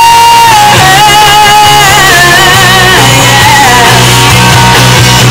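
Live country-rock band playing loud, amplified music between sung lines: a held melody note ends about half a second in, then a wavering lead melody carries on over bass, guitar and drums.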